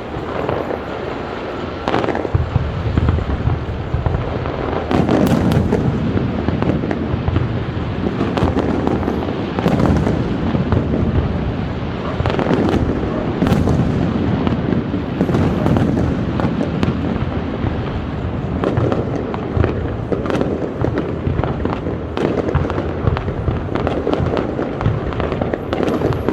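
Fireworks display: a continuous, dense rumble of booms and crackling, with sharper cracks standing out every few seconds.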